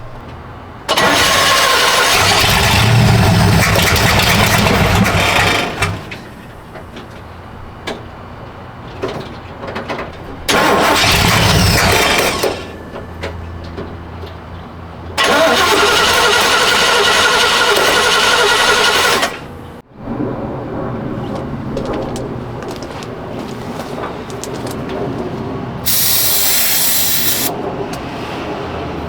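Starter cranking the old Chevrolet C10 pickup's 350 small-block V8 in three long bursts, about a second in, near the middle and around two-thirds through. A short burst of hiss comes near the end.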